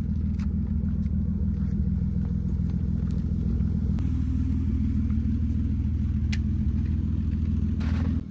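A car running with a steady low rumble, the kind of engine and road drone heard from inside or beside a moving or idling car.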